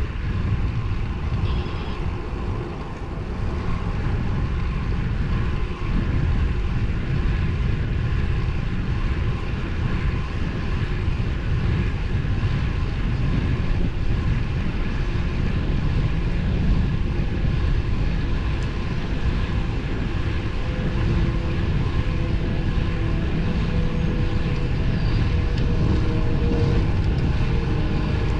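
Steady wind rumble on the microphone with road and tyre noise from a road bike riding at speed. In the second half a faint steady hum joins in.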